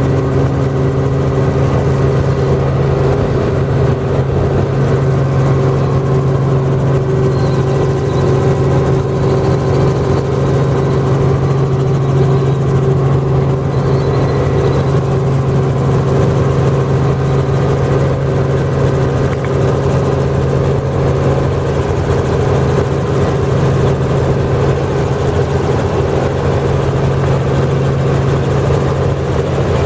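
Helicopter engine and rotor running steadily: a loud, even low hum with a steadier higher whine above it that does not rise or fall.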